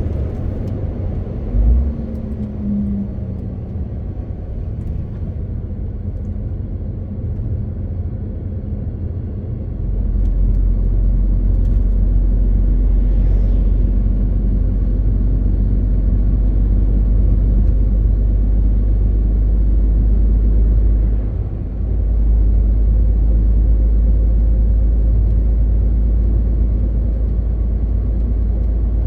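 Cab noise of a MAN TGX 18.520 truck on the road: a steady low drone of the diesel engine with tyre and road noise. There is a single knock about two seconds in. The drone grows louder about ten seconds in and dips briefly about twenty-one seconds in.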